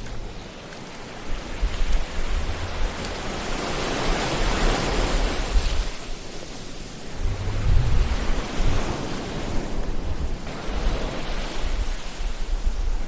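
Ocean surf: waves breaking and washing ashore, swelling and falling back every few seconds, with a low rumble underneath.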